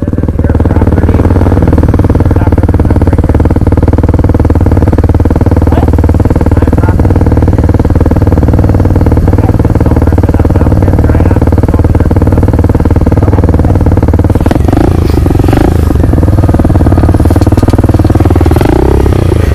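SSR 125 pit bike's single-cylinder four-stroke engine running at a steady throttle while riding. Its pitch rises and falls briefly about three quarters of the way through, and again near the end.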